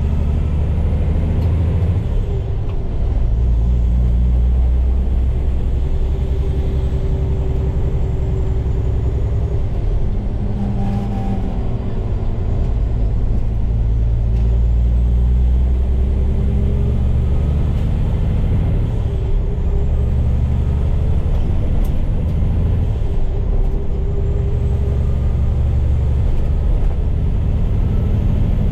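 Heavy diesel truck engine running under way, heard from inside the cab, its low note stepping up and down several times as the truck works through the gears.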